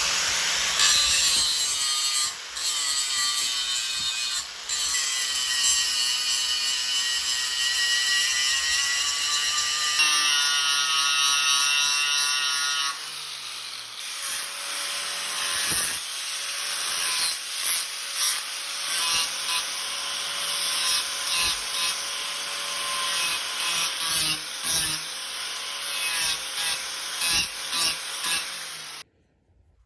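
Metalworking on a steel sprocket blank. For about the first half a power tool runs steadily, its pitch drifting. Then come repeated uneven rubbing strokes, a little more than one a second, until the sound cuts off suddenly near the end.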